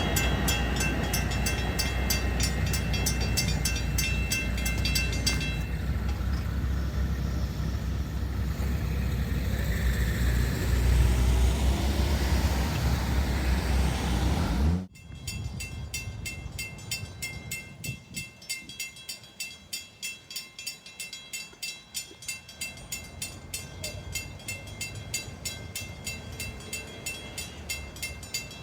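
Long Island Rail Road train passing close by with a loud low rumble. About fifteen seconds in, the sound cuts off abruptly and gives way to a quieter, regular pulsing, about two beats a second.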